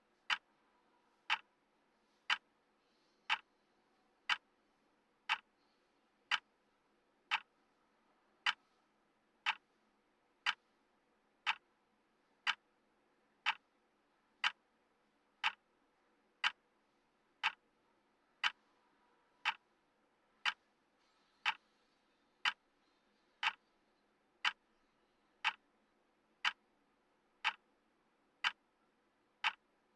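Clock-tick sound effect of a countdown timer, one sharp tick a second, evenly spaced.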